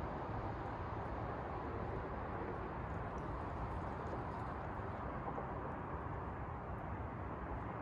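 Cars of a manifest freight train rolling past: a steady low rumble of steel wheels on the rails, with faint scattered clicks.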